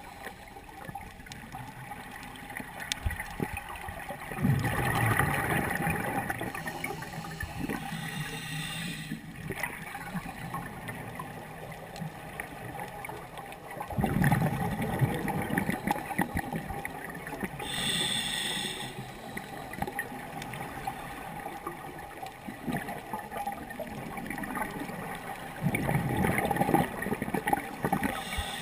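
Scuba diver breathing through a regulator underwater: a short hiss of each in-breath, then a bubbling exhalation that rumbles for a couple of seconds, three times over, in a slow, even rhythm.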